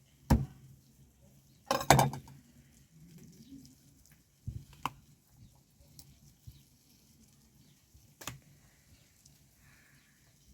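A few sharp knocks and clicks of kitchen utensils handled during food preparation, scattered irregularly, the loudest about two seconds in.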